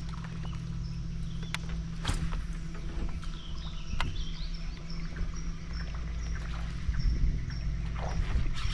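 Kayak on the water: a steady low rumble with water and hull noise, broken by a few sharp knocks, three of them in the first four seconds.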